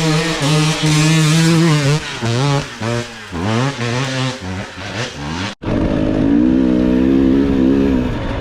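Off-road enduro motorcycle engine held at steady revs, then blipped up and down in quick short bursts of throttle. The sound cuts off abruptly about five and a half seconds in, and the engine resumes at a steady, higher rev.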